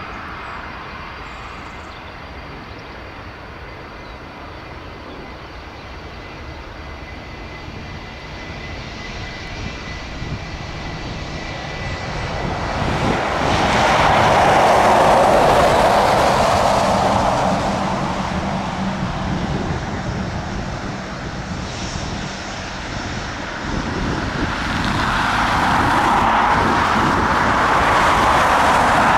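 Boeing 757 airliner's jet engines: a rushing roar that swells to a peak about halfway through, eases off briefly, then rises again near the end.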